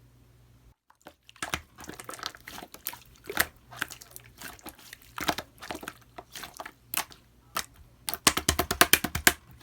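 Clear slime being squeezed and pressed by hand, making sticky popping and clicking sounds, with a quick rapid run of pops near the end.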